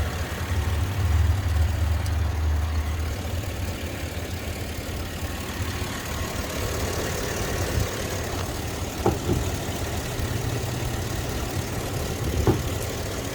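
Chevy Silverado pickup's engine idling steadily at operating temperature, with a couple of light clicks near the end. The mechanic diagnoses a torn head gasket leaking coolant into the exhaust.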